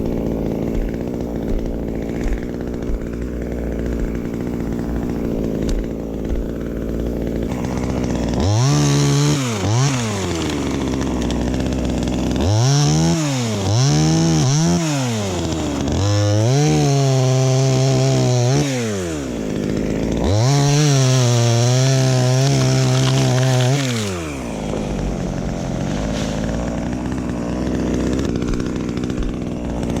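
Two-stroke chainsaw idling steadily, then revved up and down several times, twice held at high revs for a few seconds, before dropping back to idle.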